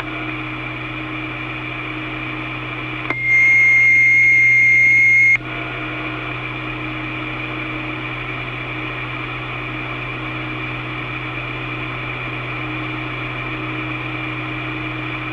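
Open two-way radio channel with steady hiss and a low hum and no voice. About three seconds in, a loud steady beep-like tone sounds for about two seconds and then cuts off.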